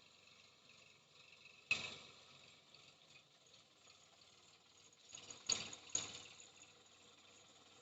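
Three sharp knocks over a faint steady background: one about two seconds in, then two close together about half a second apart near the end.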